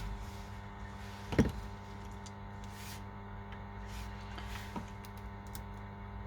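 Small clicks and handling of tools and phone parts on a repair bench, with one louder knock about a second and a half in, over a steady electrical hum.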